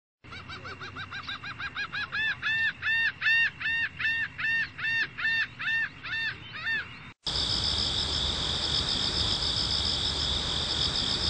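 A bird calling in a rapid series of short rising-and-falling calls, about two to three a second, growing louder and then fading. About seven seconds in the calls cut off, and a steady high chirring of insects takes over.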